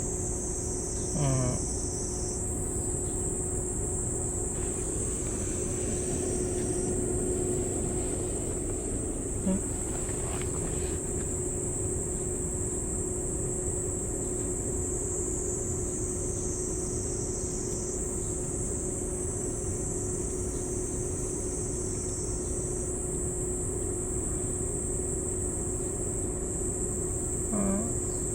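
A steady, high insect chorus with a constant low mechanical hum beneath it. Two short vocal sounds break in, about a second in and near the end.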